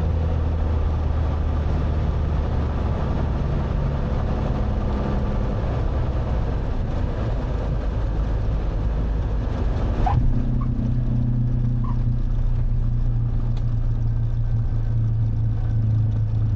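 Cabin noise of a Cessna 182's six-cylinder piston engine and the air rushing past during the landing. About ten seconds in the sound changes abruptly: the rushing noise drops away, a short squeak is heard, and the engine settles to a steady lower hum, fitting touchdown and the rollout.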